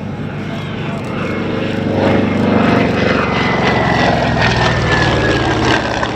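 Grumman F6F-5 Hellcat's Pratt & Whitney R-2800 radial engine and propeller in a flypast. The engine drone swells about two seconds in and stays loud, while a high tone slowly falls in pitch as the plane goes by.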